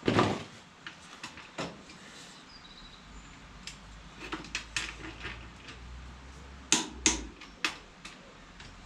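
Metal hand tools knocking and clinking against the tractor's final drive bolts and housing: a series of separate sharp knocks, loudest right at the start and in a quick group of three around seven seconds in.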